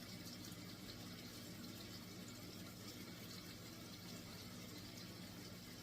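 Faint steady low hum with a soft hiss: room tone, with nothing starting or stopping.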